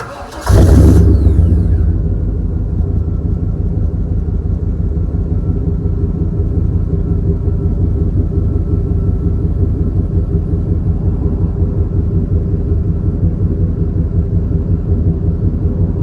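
1997 Chevrolet Express van engine starting: a short crank, then it catches with a loud flare of revs and settles into a steady idle, the exhaust giving a deep, even rumble.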